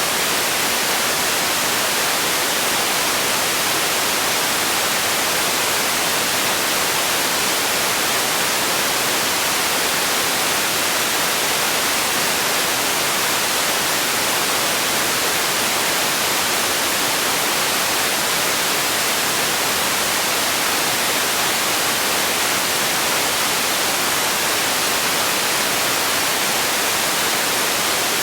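Steady white-noise hiss, an even, unbroken rush of sound that is strongest in the treble and thin in the bass.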